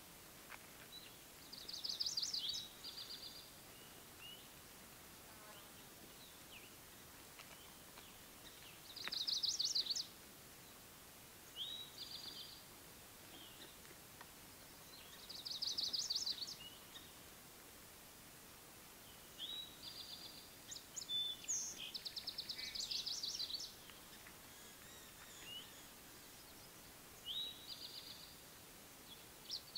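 Songbirds singing short, high, rapidly trilled phrases, one every few seconds, over faint outdoor background hiss.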